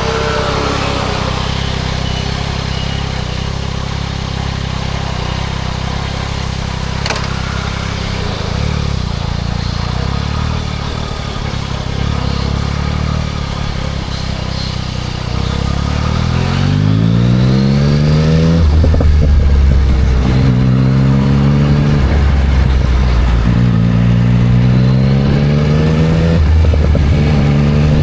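Yamaha MT-09 SP's inline-three engine through a Spark triple-exit full exhaust. The pitch falls briefly at the start, then the engine runs low and steady for about sixteen seconds. It then pulls away hard, the note rising through the gears with three upshifts.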